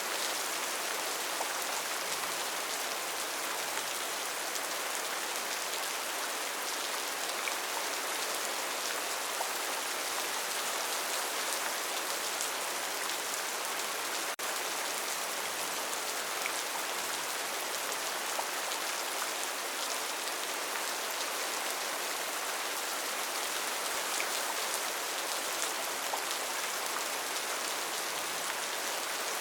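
Steady rainforest rain: an even, unbroken hiss of falling rain with small scattered drop ticks.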